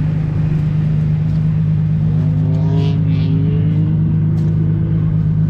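Drift car's engine running steadily with a constant low drone, its pitch unchanging. Faint rising tones come in over it in the middle.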